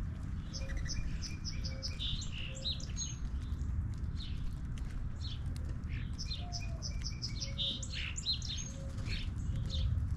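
Small birds chirping and twittering in two flurries of quick high notes, over a steady low rumble.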